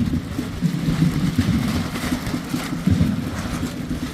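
Wind buffeting the microphone in a gusting low rumble, with rain falling.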